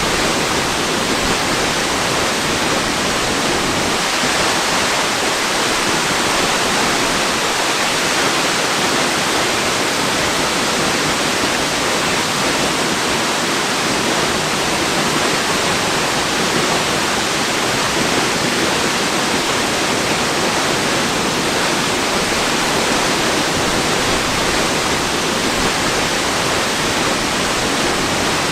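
Waterfall rushing steadily: an even, unbroken hiss of falling water that does not change.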